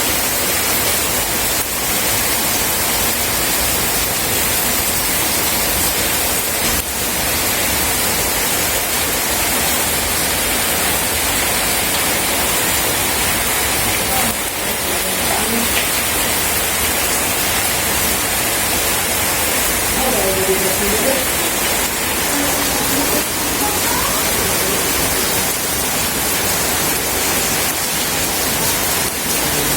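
Steady rain falling, a dense even hiss. A faint voice comes through under the rain about 20 seconds in.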